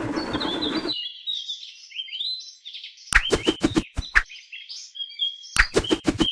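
Short high chirping notes that glide up and down, like a small bird, broken twice by a quick run of sharp clicks; a burst of noise in the first second.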